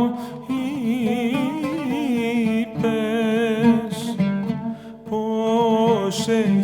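Greek folk song music: an ornamented melody line wavering with vibrato over a steady low drone, with plucked-string accompaniment.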